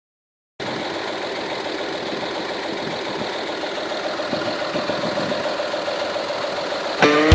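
1947 GMC pickup truck's engine idling steadily. Music comes in loudly near the end.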